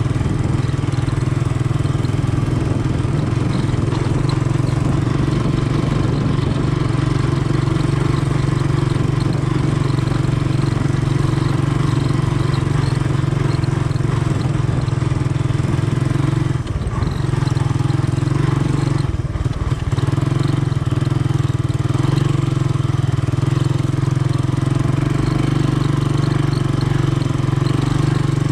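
Honda ATC 200M three-wheeler's single-cylinder four-stroke engine running steadily, with two brief dips in level about two-thirds of the way through as the throttle eases.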